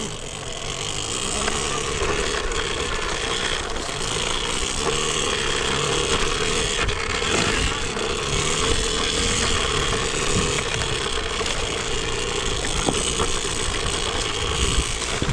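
Electric dirt bike running steadily along a rough trail: a constant motor whine over the rumble and rattle of the bike on uneven ground.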